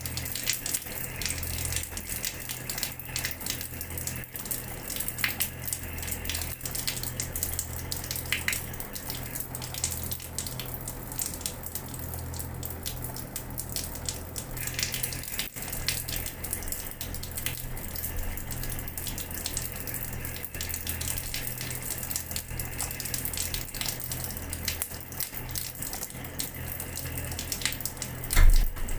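Water running from a tap and splashing onto a hard floor: a steady spatter with many small splash clicks, over a constant low hum. A single sudden low thump sounds near the end.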